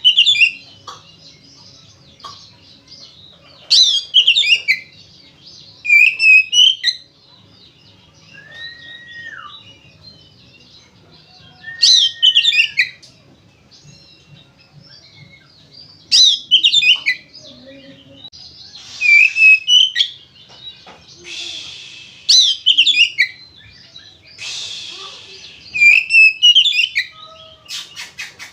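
Oriental magpie-robin (kacer) singing hard: loud phrases of quick falling whistled notes every few seconds, with a few single clear whistles and some harsh rasping notes in the second half. A run of fast clicks comes near the end.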